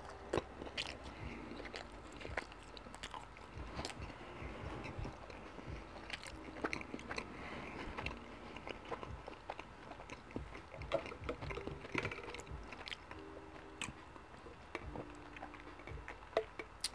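Close-miked chewing of soft, garlic-buttered Crazy Bread breadsticks, with many small wet mouth clicks. Near the end, a sip of grape soda through a straw.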